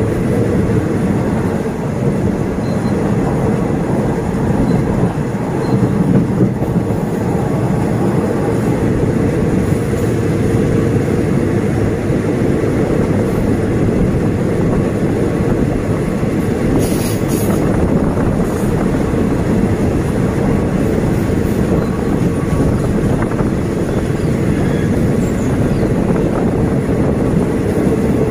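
Passenger train running along the track, heard from an open carriage window: a steady rumble of wheels on rail, with a brief high-pitched sound a little past halfway.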